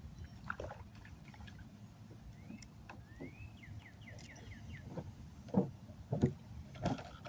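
A songbird singing a rising whistled note, then a quick run of short falling notes, over a steady low rumble. Three louder thumps come near the end.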